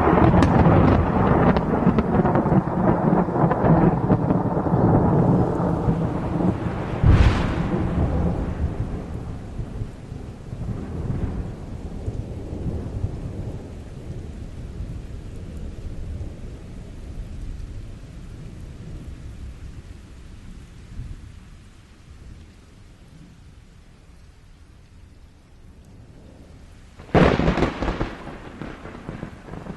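Thunder: a loud rolling rumble that slowly fades away, with a sharp crack about a quarter of the way through and another sudden close crack near the end.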